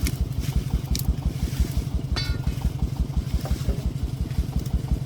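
Single-cylinder diesel engine of a công nông farm truck running with a steady, rapid chugging beat.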